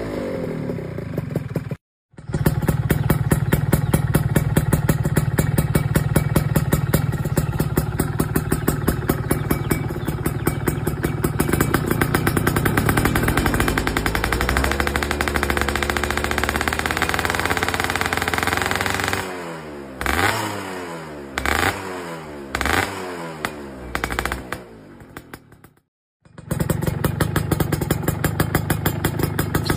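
Yamaha F1ZR two-stroke single-cylinder engine running through a KEN2 racing muffler, with a fast, crackly exhaust note. It runs steadily, then is revved in several quick throttle blips, each rising and falling. The sound cuts out briefly twice.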